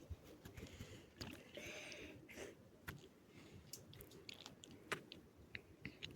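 Near silence with faint, irregular small clicks and soft rustles.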